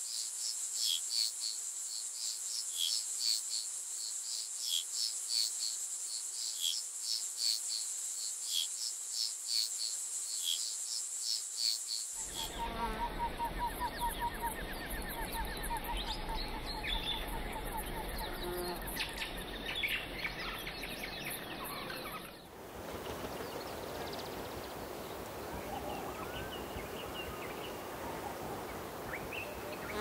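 Tropical forest ambience: a steady, high insect chorus with regular chirping, which changes about 12 seconds in to birds giving rapid trilled calls over insects, and again about 22 seconds in to a looser mix of bird calls and whistles.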